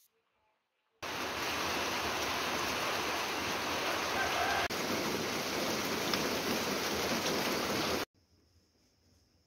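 Steady rain falling on tree foliage, an even hiss that starts abruptly about a second in and cuts off suddenly about eight seconds in.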